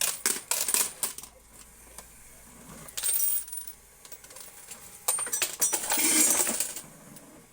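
Quarters dropping and clattering in a coin pusher machine: a quick run of clinks at the start, a short burst about three seconds in, and a longer cascade of coins from about five to seven seconds in.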